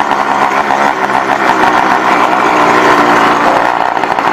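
Small engine of a motorized bicycle running steadily while riding, with a fast, even firing buzz.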